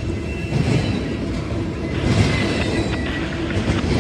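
Norfolk Southern freight train cars rolling past with a steady rumble of wheels on rail, and a faint high wheel squeal about two seconds in.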